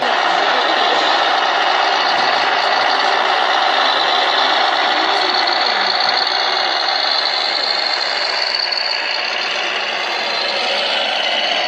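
Radio-controlled model truck's small electric motor and gearbox whirring steadily.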